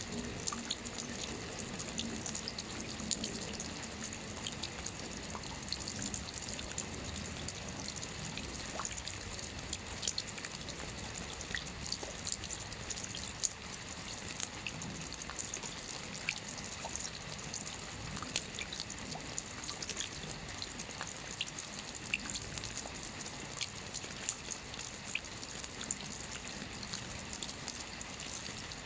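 Steady rainfall, a continuous hiss with many scattered drops pattering and dripping.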